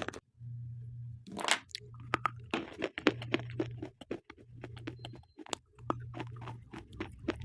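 Slate pencils being bitten and chewed close to the microphone: a dense run of sharp crunching clicks, with a louder crunch about a second and a half in. A low hum comes and goes underneath.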